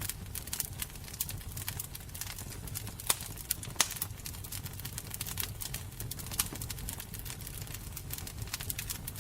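Fire crackling: frequent small, irregular pops over a low steady rumble, with two louder pops about three and four seconds in.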